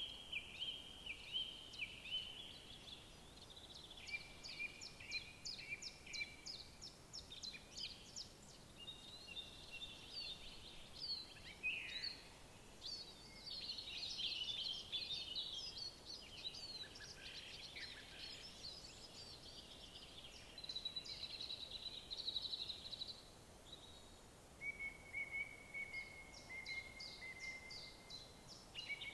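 Several songbirds singing at once, overlapping trills, rapid chirp series and short whistled phrases, in a woodland chorus with no break.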